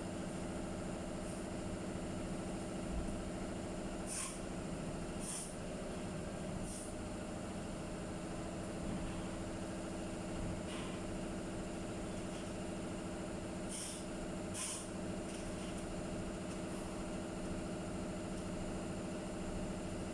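A steady machine hum running throughout, broken by several short hisses of compressed air, two close together at about 4 and 5 seconds in and two more at about 14 and 15 seconds.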